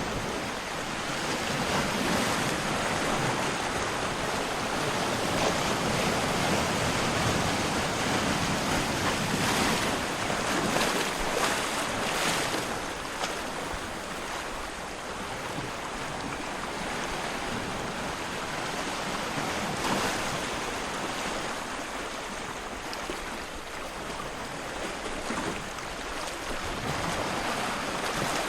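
Rushing water: a steady, even hiss that swells louder for several seconds, eases, and swells again near the end.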